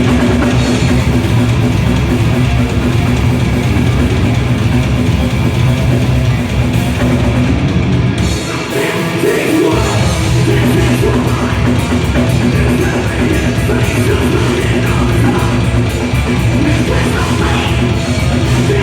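Loud heavy rock music with electric guitar and singing, with a brief drop in the band about halfway through.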